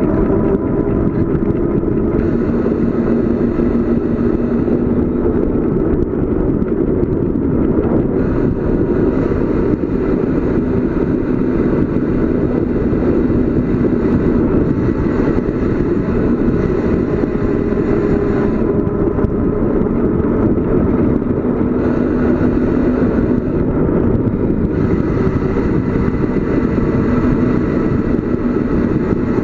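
Wind roaring over the microphone of a camera on a bicycle coasting downhill, with a steady low hum underneath.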